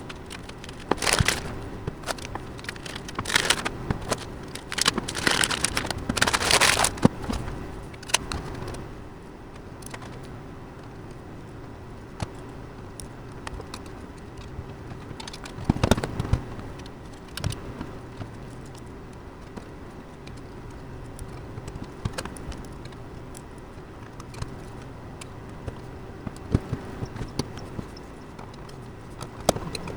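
Computer parts and packaging being handled: several short bursts of rustling in the first seven seconds, a knock about sixteen seconds in, and scattered small clicks and clinks.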